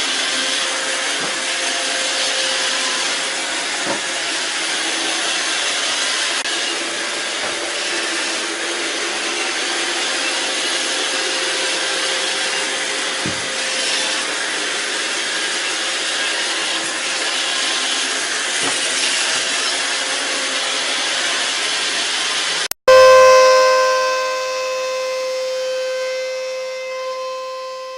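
Vacuum cleaner running with a steady hiss. After an abrupt cut near the end, a loud sustained tone with overtones starts and slowly fades.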